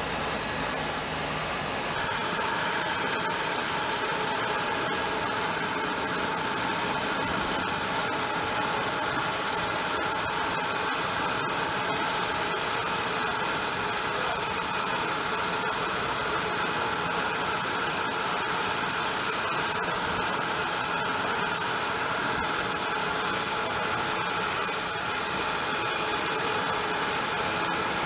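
Aircraft turbine running steadily: an even rushing noise with a steady high-pitched whine. The tone shifts abruptly about two seconds in, then holds.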